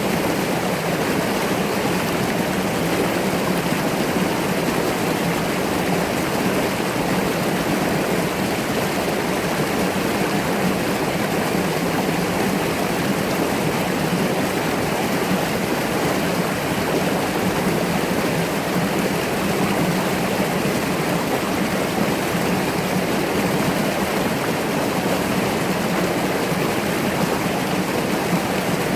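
Mountain brook rushing steadily over rocks, a constant even wash of water.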